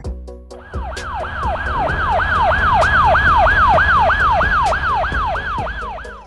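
Police car siren in a fast yelp, its pitch sweeping up and down about three times a second over a low vehicle rumble. It starts about a second in, swells, then fades toward the end.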